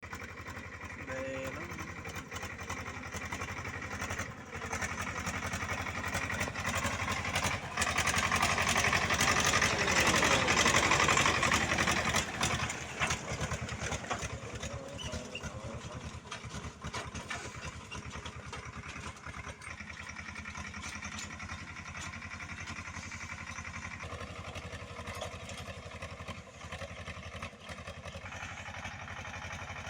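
Tractor engine running with a steady, fast chugging beat. It grows louder toward the middle, then drops back with a falling pitch, as if passing close by.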